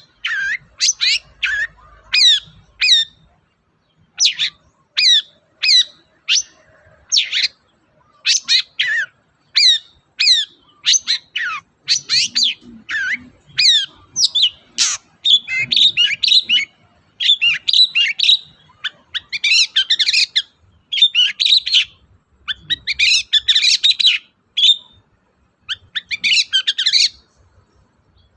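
Long-tailed shrike (cendet) singing: first a rapid series of sharp, short downward-sweeping notes, then denser, more varied chattering phrases from about halfway on.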